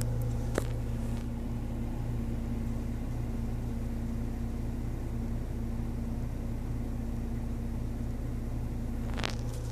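Car engine idling, a steady low hum heard from inside the closed cabin, with a single faint click about half a second in.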